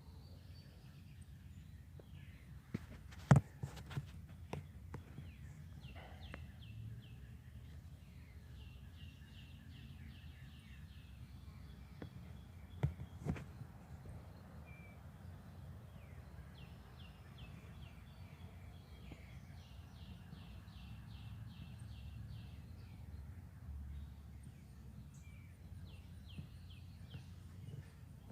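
Songbirds singing in bouts of fast, evenly repeated high chirps, several times over a steady low background rumble. A few sharp knocks stand out about three seconds in and again about thirteen seconds in.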